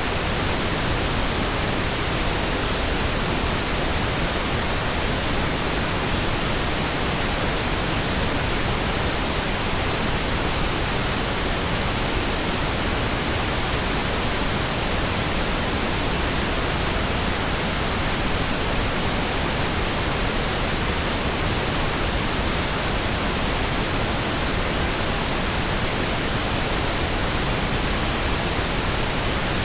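Steady, continuous pink noise: an even, smooth hiss spread across the whole pitch range, with no changes or interruptions.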